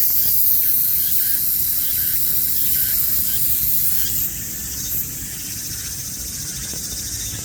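Cicada singing: a loud, steady, high-pitched buzz. About four seconds in, it drops a little in level and changes to a rapid pulsing.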